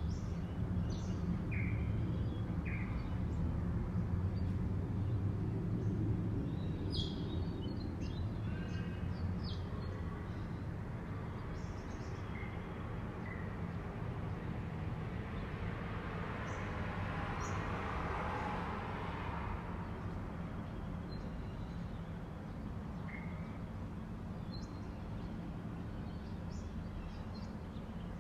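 Dawn birdsong: scattered short chirps and calls from several birds over a steady low background rumble. Past the middle, a broader noise swells and fades.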